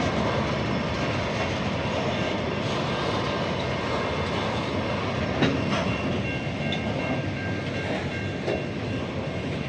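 SCT freight train's wagons rolling past on the rails: a steady rumble of wheels with a few clacks over rail joints and a faint high steady whine through the middle.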